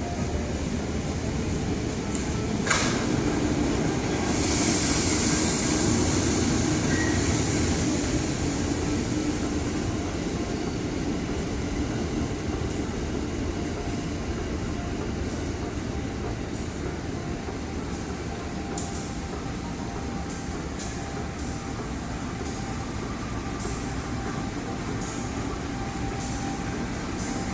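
A train running through a railway station: a steady rumble, with a burst of hiss a few seconds in and a run of clicks in the second half.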